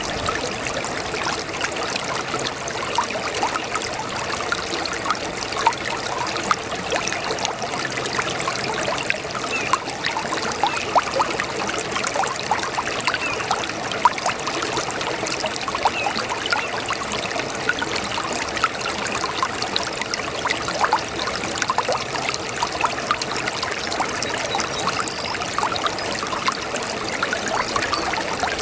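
A small brook babbling over stones: a steady trickling and burbling of running water with many small splashes.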